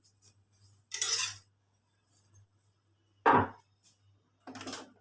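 Clinks and knocks of machine parts being handled as the stand is lifted off an embroidery machine: three short separate sounds, the sharpest a knock about three seconds in, over a faint low hum.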